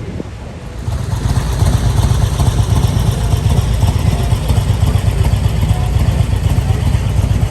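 A motorcycle engine running close by: a loud, low, steady rumble that comes in about a second in.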